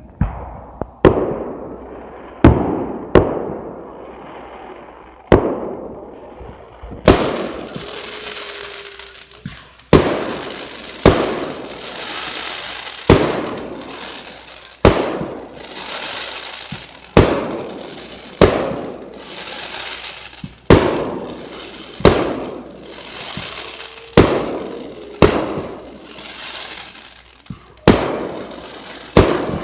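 Aerial fireworks shells bursting in steady succession, roughly one loud bang a second, each trailing off in an echo. From about seven seconds in, a continuous high hiss runs under the bangs.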